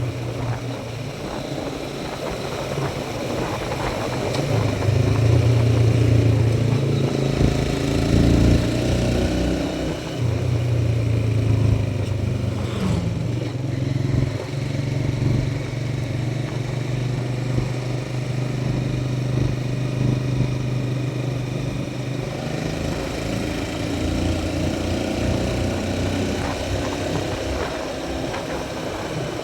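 Motorcycle engine running while the bike is ridden. It grows louder about four seconds in, drops off briefly near ten seconds, then holds a steady hum.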